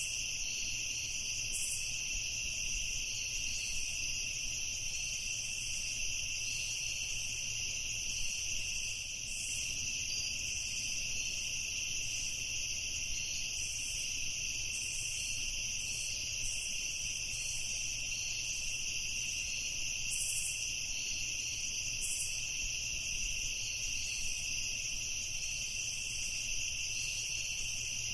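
Night chorus of crickets and other insects: a steady, unbroken high-pitched chorus, with short higher chirps coming and going over it.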